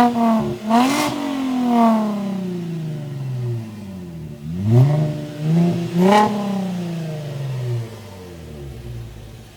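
Chevrolet Camaro 3.6-litre V6 exhaust being revved. It gives a few quick blips whose pitch falls away slowly, then, about four and a half seconds in, another set of sharp revs that settles back toward idle.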